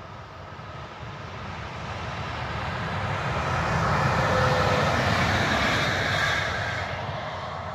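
A locomotive hauling a single coach passes by: the rumble of the train on the rails swells as it approaches, is loudest about four to five seconds in as it goes past, then fades away and is cut off suddenly at the end.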